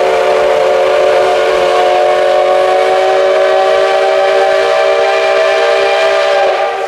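Steam locomotive whistle of the SL Ginga's C58 engine, one long blast sounding a chord of several steady tones, which sags slightly in pitch and drops away about six and a half seconds in.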